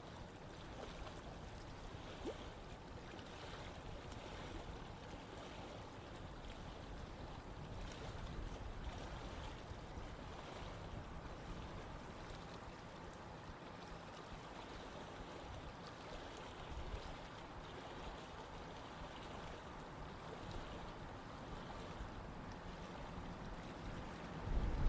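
Running water of a stream flowing steadily in an even rushing hiss. Just before the end, wind starts buffeting the microphone with a low rumble.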